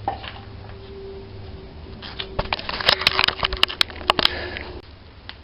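Wood and debris crunching and snapping: a quick cluster of sharp cracks starting about two seconds in and lasting about two seconds.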